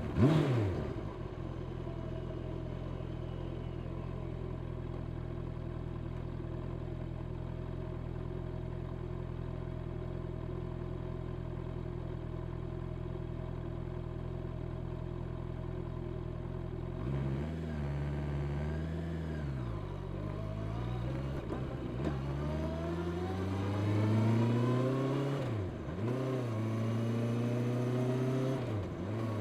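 Honda CB650R's inline-four engine through its stock exhaust: a couple of quick rev blips at the start, then a steady idle. About 17 seconds in the bike pulls away and accelerates, the pitch rising and dropping back at each of three upshifts.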